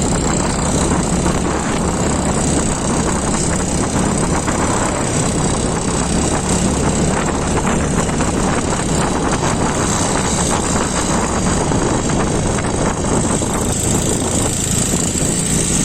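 Small two-wheeler engine running steadily on the move, with a loud, even rush of wind and road noise.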